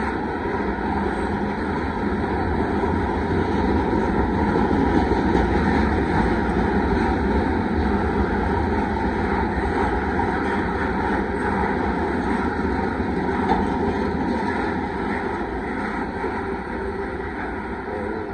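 Freight train of covered hopper cars rolling past close by: a steady rumble and rush of steel wheels on rail, easing off over the last few seconds as the end of the train goes by.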